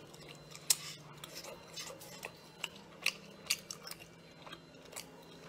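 Close-miked chewing of a mouthful of braised seafood: a scattering of sharp, wet mouth clicks, the loudest about a second in, over a faint low hum that stops soon after.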